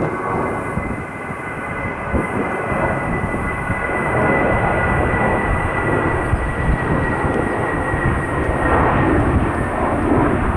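Airliner's engines passing close by: a loud rush with a steady high whine that sinks slightly in pitch near the end. The noise grows louder about four seconds in.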